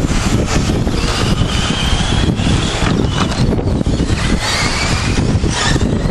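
Electric radio-controlled short course trucks racing, their motors whining in pitches that slide up and down as they speed up and slow, over a steady low rumble.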